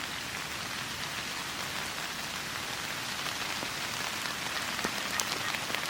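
Steady rain falling, a continuous hiss with a few sharper drop ticks in the second half.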